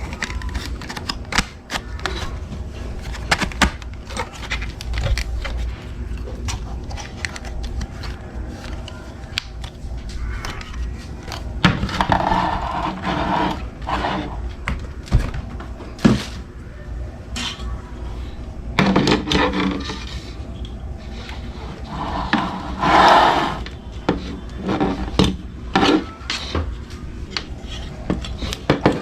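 Irregular clicks, knocks and scraping of hard objects being handled, with a few longer, louder bursts of noise along the way.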